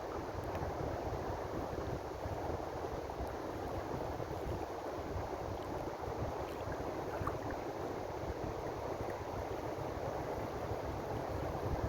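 Ocean surf washing steadily in an unbroken hiss, with an uneven low rumble underneath.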